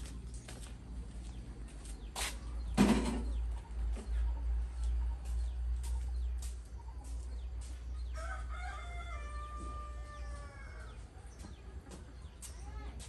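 Domestic chickens, with one long crow from a rooster starting about eight seconds in and lasting roughly two and a half seconds, among scattered sharp clicks and a louder scuffle about three seconds in.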